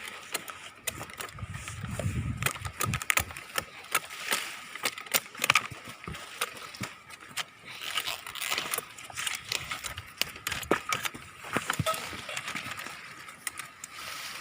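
Irregular crackling and snapping of dry date palm fronds and thorns being worked and trimmed, with a gust of wind on the microphone about two seconds in.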